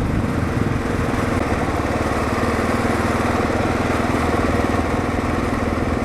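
2022 Kawasaki KLR650's single-cylinder engine running steadily as the motorcycle is ridden at an even pace.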